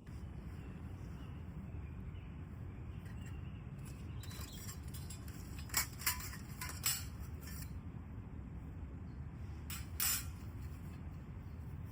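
A few sharp clinks of metal camp cookware being handled, three about six seconds in and another about ten seconds in, over a steady low rumble.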